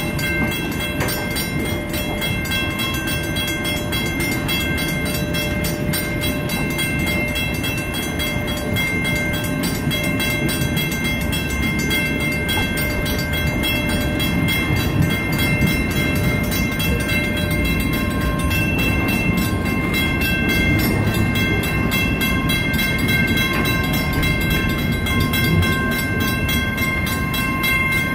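Circus train's railroad cars rolling past close by: a steady rumble of wheels on rail, with several steady high tones over it.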